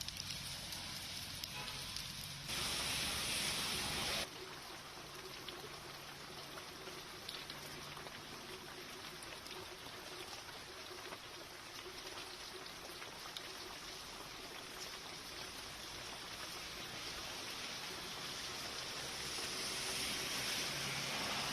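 Heavy rain pouring down in a steady hiss. It gets louder for a short stretch that starts and stops abruptly near the start, and swells again near the end.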